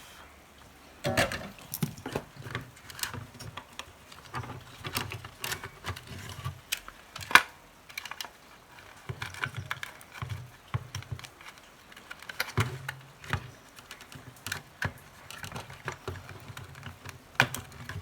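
Irregular light clicks and knocks of radio parts and wiring being handled and fitted by hand, the loudest knock about seven seconds in.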